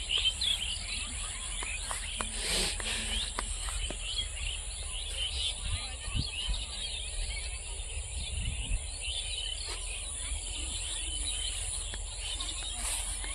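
Many birds chirping at once, short calls overlapping throughout, over a steady high-pitched hiss and a low rumble.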